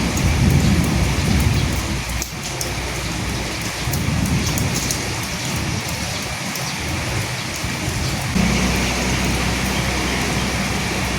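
Steady rain falling, an even hiss of drops, with low rumbles swelling in the first couple of seconds and again about four seconds in. A steady low hum joins about eight seconds in.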